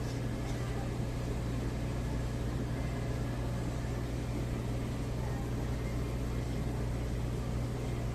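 A steady low hum with an even hiss underneath, holding constant throughout.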